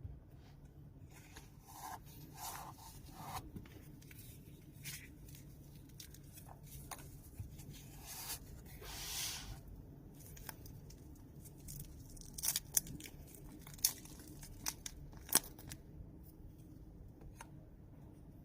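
Watch packaging being handled and opened: a series of short rustles and scrapes, a longer tearing rustle about nine seconds in, then several sharp clicks.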